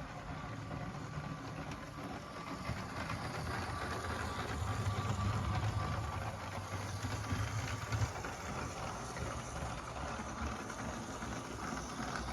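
Motorised LEGO locomotive running steadily along plastic LEGO track: small electric motors whirring and wheels running on the rails. There is a single click about eight seconds in.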